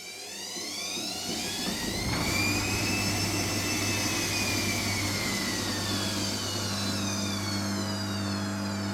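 Hotpoint Extra WMXTF742K washing machine's motor running, with a whine that climbs in pitch and loudness over the first two seconds or so as the drum speeds up, then slowly sinks again, over a steady low hum.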